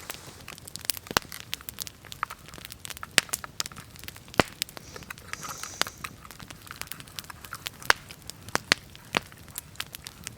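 Wood fire crackling, with irregular sharp pops scattered throughout.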